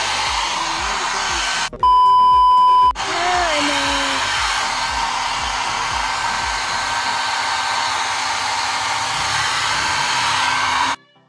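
Mini hair dryer running steadily, a loud whirring with a faint motor whine. About two seconds in it is broken for about a second by a loud steady beep tone, and it cuts off abruptly near the end.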